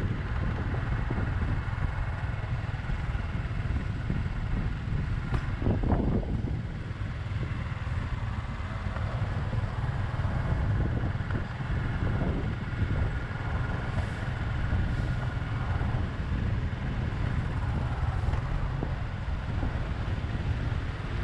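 Motorbike riding: wind buffets the microphone over the steady running of the bike's engine and the surrounding street traffic.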